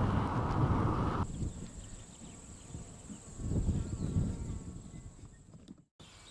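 Wind and road rush on the microphone cuts off abruptly a little over a second in. A quieter outdoor bed follows, with a thin, steady high-pitched whine and a soft gust of wind near the middle.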